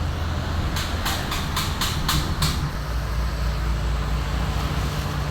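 Homemade blower fan driven by a salvaged water-pump electric motor running steadily, a low hum under a rush of air. A quick run of about seven sharp clicks sounds about a second in.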